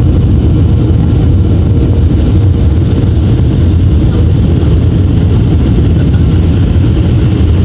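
Boeing 737-500 heard from inside the passenger cabin in flight: a steady, loud rumble of airflow and its CFM56-3 turbofan engines.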